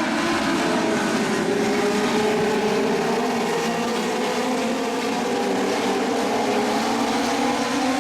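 Legends race cars' Yamaha motorcycle engines running at speed on the track. The engine pitch slowly rises and falls as they lap.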